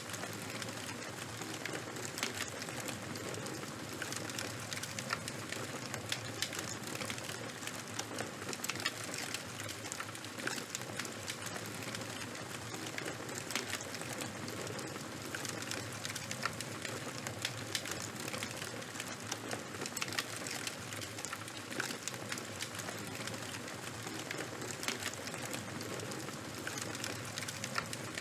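Campfire burning with a steady hiss and frequent irregular crackles and pops from the burning wood.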